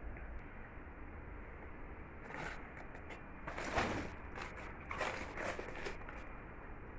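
Kitchen handling sounds as blanched cabbage leaves and a ladle are worked in a pot of hot water: soft scrapes and light knocks, with a sharper knock about four seconds in.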